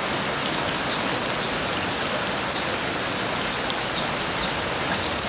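Heavy rain falling steadily, a dense even hiss of rain on surfaces with no thunder in this stretch.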